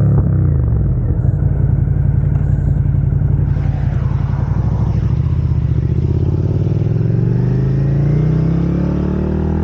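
Suzuki SV650's V-twin engine through a Dominator GP aftermarket exhaust, heard from on the bike while riding. The revs drop just after the start, the engine holds a steady pulsing beat, then from about six seconds in it pulls up through the revs as the bike accelerates.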